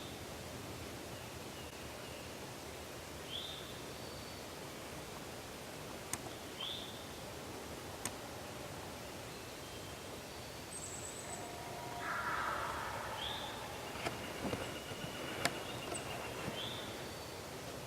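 Spring woodland ambience: a bird repeats a short rising note about every three seconds. A louder, rougher call comes from further off about twelve seconds in, and a few sharp snaps like twigs or steps in leaf litter sound over the steady background.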